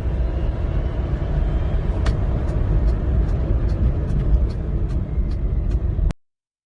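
Steady low rumble of a car on the move, road and wind noise, with scattered light clicks. It cuts off abruptly about six seconds in.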